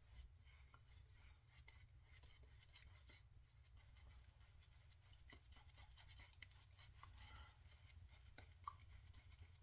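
Faint, scratchy strokes of a double-edge safety razor cutting through lathered stubble, over a low steady hum.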